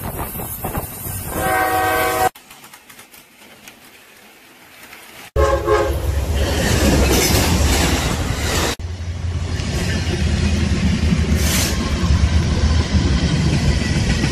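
Diesel locomotive horn sounding a chord twice, about a second in and again about five seconds in, then passing trains: the low hum of diesel locomotives with wheel noise on the rails. The sound changes abruptly three times.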